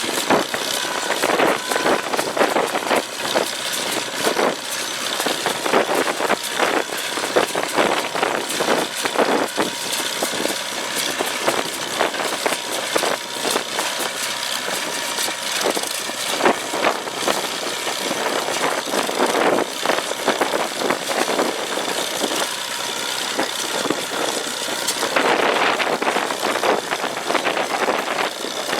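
McCormick-Deering No. 50-AW pickup hay baler running while baling, its International Harvester Cub four-cylinder engine going steadily under a continuous clatter of knocks from the plunger and baling mechanism.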